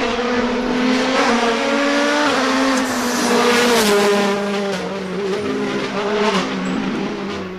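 Racing car engine sound effect running at high revs, its pitch holding and then stepping up and down, with a noisy hiss over it.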